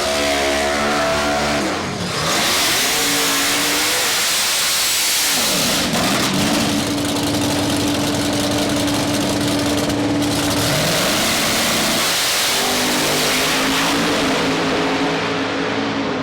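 Twin-turbo Bennett 400 small-block Ford V8 in a drag-racing Ford Lightning pickup running hard down the strip, over loud rushing noise. Its pitch dips and climbs back several times and holds steady in between.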